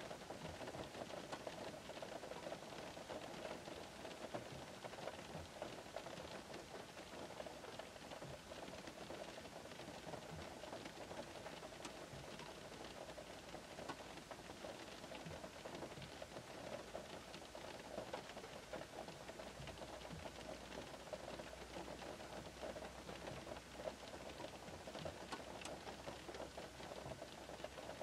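Light rain pattering on the roof and glass of a parked Škoda car, heard from inside the cabin: a steady, gentle patter of many small drops.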